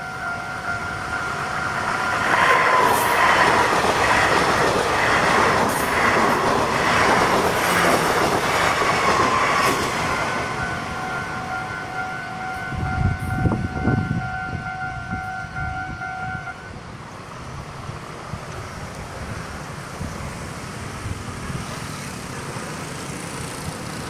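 A TRA EMU500 electric commuter train runs past a level crossing, its wheels clacking rhythmically over the rail joints for about eight seconds before the sound fades as it draws away. The crossing's electronic warning bell rings at the start and again after the train has passed, then stops about two-thirds of the way in as the crossing clears.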